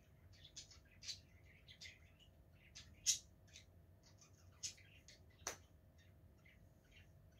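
Faint eating sounds of French bread with tuna and cucumber being chewed: irregular soft crunches and mouth clicks, with a sharper crunch about three seconds in and two more a little later.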